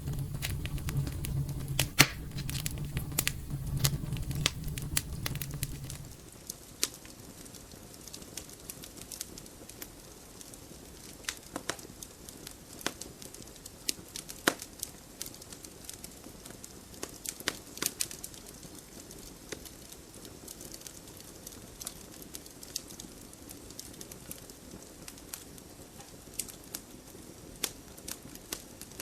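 Wood fire crackling, with irregular sharp pops and snaps. A low rumble runs underneath for about the first six seconds, then drops away, leaving sparser crackles over a quieter background.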